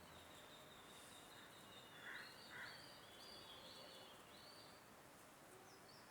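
Near silence with faint high chirping bird song in the background, and two short soft sounds about two seconds in.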